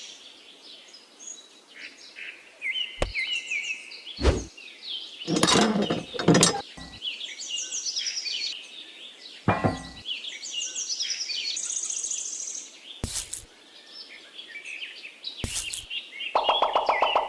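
Birds chirping and twittering throughout, with several sharp knocks scattered through it. Music comes in near the end.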